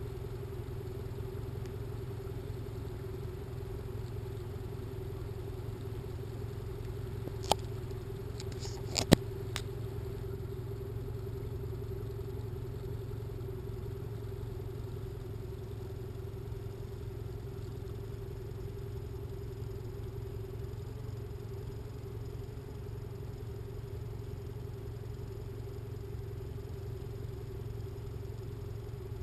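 Boat engine running steadily at low trolling speed, a constant low hum. A few sharp clicks come about a third of the way through.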